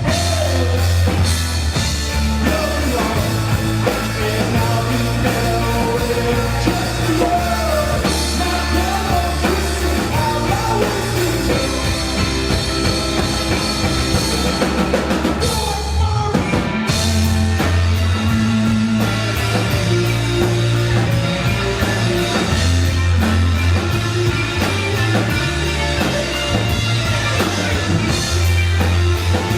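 Live rock band playing loud, with singing over electric guitar, bass and drum kit. The band drops out briefly about halfway through, then comes crashing back in.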